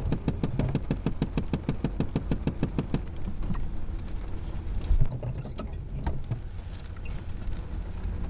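Loram rail grinder's diesel engine running with a steady low rumble, overlaid by a rapid, even clicking of about six or seven strikes a second that stops abruptly about three seconds in.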